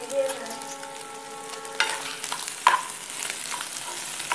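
Beef pieces frying in coconut oil in a pan, sizzling steadily as a spatula stirs them, in the last stage of roasting them dry and crisp. The spatula knocks sharply against the pan about two and three seconds in.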